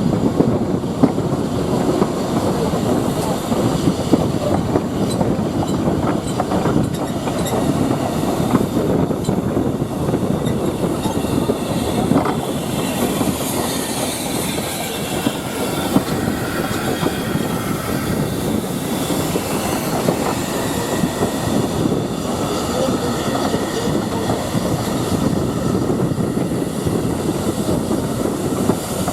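A train's wagons or carriages rolling along the track: a steady rumble of wheels on rails, with a faint wheel squeal in the middle stretch.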